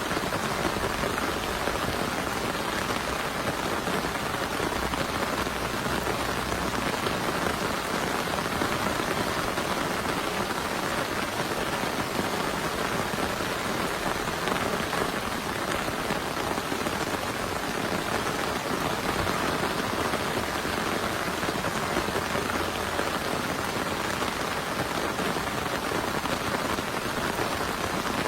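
Heavy rain falling steadily, an even dense patter with no break.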